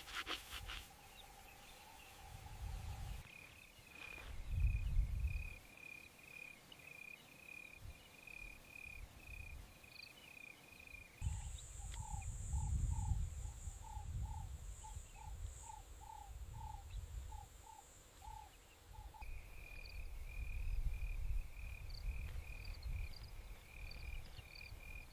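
Night ambience of chirping insects: a regular run of high chirps, two or three a second, that stops about eleven seconds in and comes back near the end. In between there is a lower pulsed call and a steady high buzz, over a low rumble like wind.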